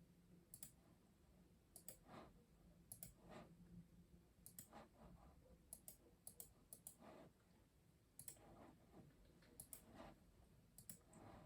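Faint, scattered keystrokes on a custom mechanical keyboard: irregular clicks, one to a few at a time, with short pauses between them rather than steady typing.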